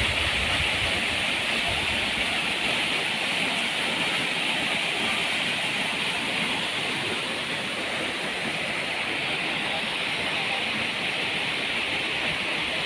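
Flowing water rushing steadily, with an even hiss.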